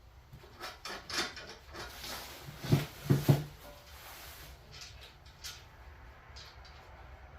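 Lathe parts and packaging being handled: a string of knocks and clunks with light scraping, the loudest two heavy thuds close together about three seconds in.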